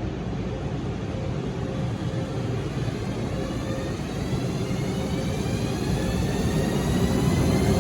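ÖBB class 1144 electric locomotive pulling away, its traction equipment whining in several tones that rise slowly in pitch over a steady rumbling hiss as it gathers speed. The sound grows louder towards the end.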